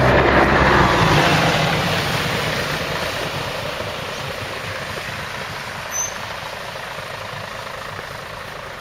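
Scania L113 bus's diesel engine running under power close by, then fading steadily as the bus moves away. A short high chirp sounds about six seconds in.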